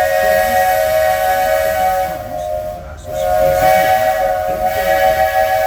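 Steam locomotive's chime whistle blowing two long blasts: a steady multi-note chord over a hiss of steam, breaking off for a moment a little over two seconds in before the second blast begins.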